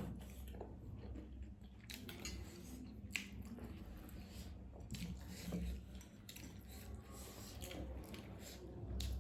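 A person chewing spicy noodles, soft wet mouth sounds with scattered small clicks.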